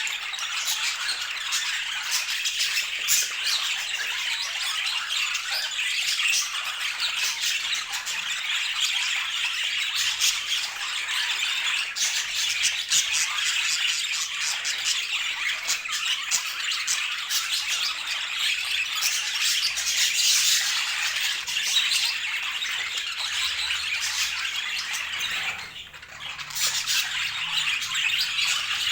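Budgerigar chatter: a continuous dense run of warbles, chirps and squawks, with a brief lull near the end.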